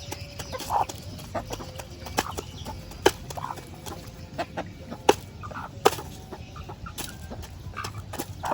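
Chickens clucking in short calls every second or two, with a scatter of sharp clicks and knocks in between.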